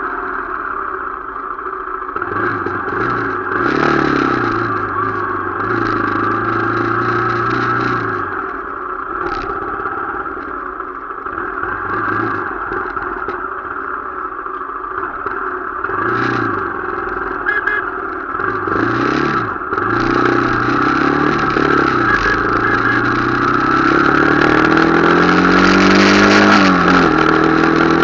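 Motorcycle engine running on the move, its pitch rising and falling as it speeds up and eases off. Near the end it climbs steadily in pitch, then drops sharply.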